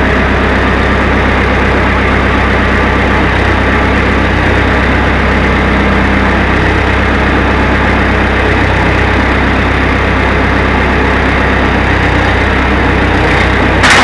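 Massey Ferguson 50 backhoe's engine idling steadily, running the hydraulics during a leak check on the freshly rebuilt swing cylinder. Two short sharp clicks at the very end.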